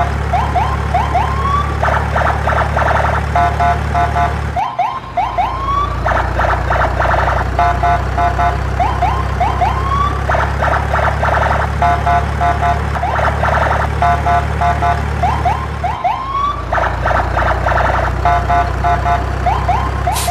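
Electronic siren-like sound effect: rapid warbling beeps and short rising chirps over a steady low drone, repeating as a loop and restarting twice.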